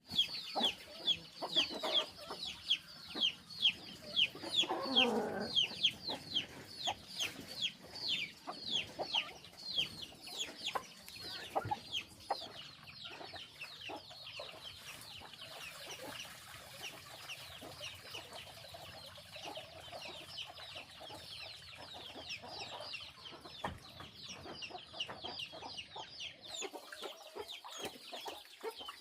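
Chickens calling: a steady stream of short, high, falling peeps, several a second, loudest for the first dozen seconds and then fainter, with one lower, fuller call about five seconds in.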